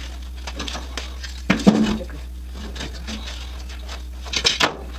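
Metal clinking and knocking from tools and car-door sheet metal being handled, with a louder burst of knocks about a second and a half in and another near the end, over a steady low hum.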